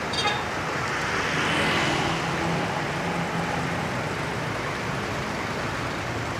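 Road traffic with a heavy truck's engine passing, its hum swelling about a second and a half in and then fading back into the steady road noise. A short high-pitched squeak comes right at the start.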